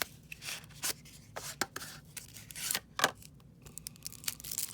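A foil-wrapped trading card pack being handled and opened, with scattered wrapper rustles and sharp little clicks from the wrapper and the cards.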